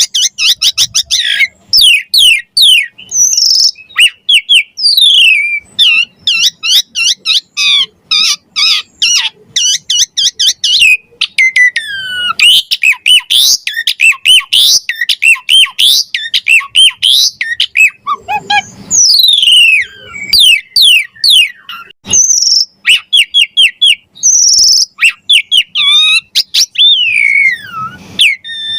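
Javan pied starling (jalak suren) singing loud and non-stop: a rapid, varied string of chirps, whistles and sliding notes with brief pauses.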